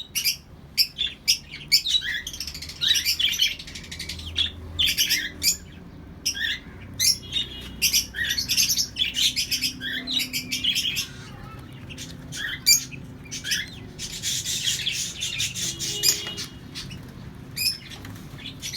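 A colony of caged pet birds chirping and squawking with many short, high calls, rising to a dense burst of chatter near the end.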